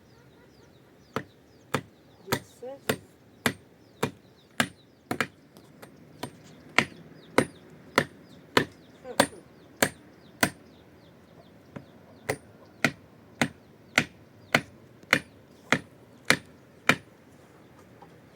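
Steady chopping: about two dozen sharp blows of a blade, roughly one every half-second or so, with a short break about two-thirds of the way through.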